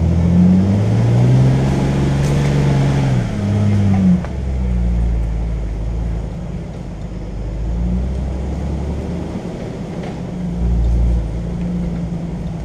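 Jeep Wrangler engine pulling along a rough dirt trail at low speed. It revs up in the first second and eases back about four seconds in, then runs on more steadily with a deep rumble that swells briefly near the end.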